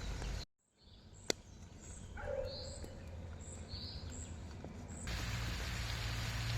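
Outdoor nature sound with abrupt cuts: a steady noise stops suddenly, a sharp click follows, and then birds chirp a few times before the steady noise cuts back in with a low hum.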